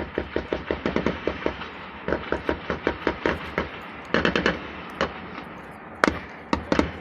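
Automatic gunfire: bursts of rapid shots, several a second, that stop and start again, then a few single shots near the end.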